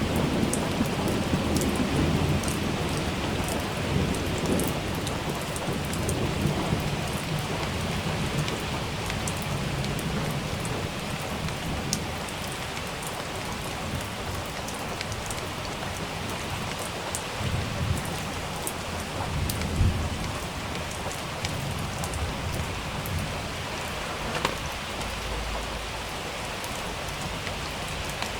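Steady rain falling, with individual drops ticking, and low rolling thunder that dies away over the first few seconds and rumbles again briefly a little past the middle.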